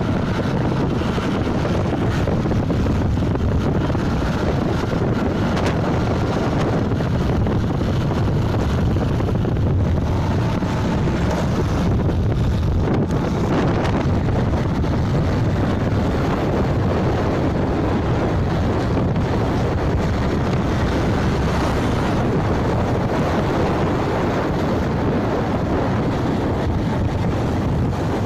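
Wind rushing over the microphone of a moving motorbike, a steady loud rush with vehicle noise under it.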